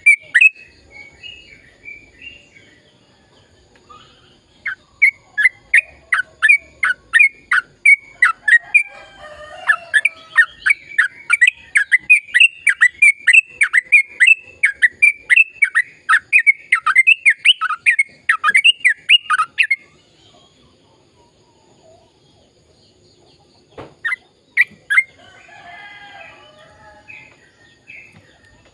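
Sooty-headed bulbul (trucukan) singing a long, fast run of sharp repeated notes, about three a second, lasting some fifteen seconds. Then it pauses, and there is a single click and some softer chatter near the end.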